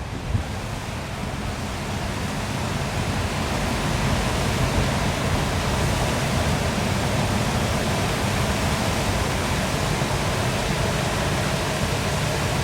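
Waterfall: a steady rush of falling water that grows a little louder over the first few seconds, then holds even.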